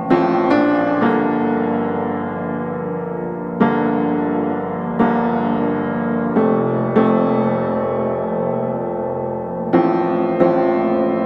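Background piano music: slow chords struck every second or two and left to ring.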